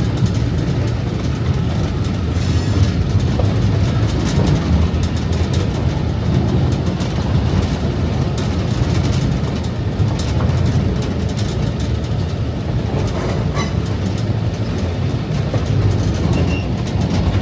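Passenger train car rolling along the track: a steady low rumble with the wheels clacking over the rails. Two brief higher bursts of noise break through, about two and a half seconds in and again around thirteen seconds.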